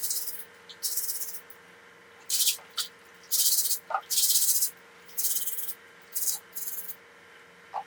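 Spray hissing in short repeated bursts, about ten, each under a second, over a faint steady hum.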